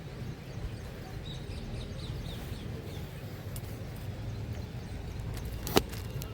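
Outdoor ambience with a steady low rumble, a short run of faint high chirps a second or two in, and one sharp click near the end.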